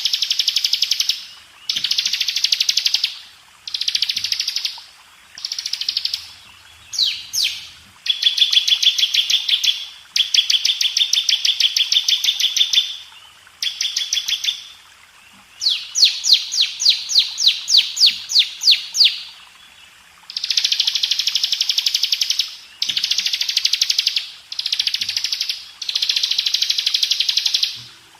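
Ciblek (bar-winged prinia) singing in a recording for training cage birds: bursts of rapid, buzzy high trills of one to three seconds, with short pauses between, and near the middle a run of sharp rising notes at about eight a second.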